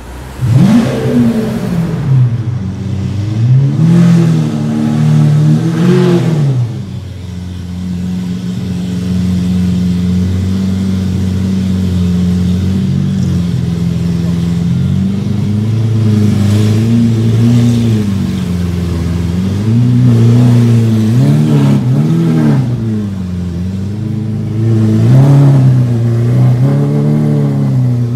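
Lamborghini Aventador S's 6.5-litre V12 catches with a flare of revs and is blipped twice. It then settles to a steady idle for several seconds, and the revs rise and fall several times as the car drives off.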